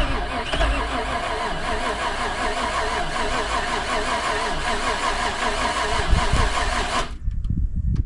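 Off-road buggy's engine running just after a cold start from a jump, its idle wavering up and down unevenly. The engine sound cuts off abruptly about seven seconds in, leaving low rumbling.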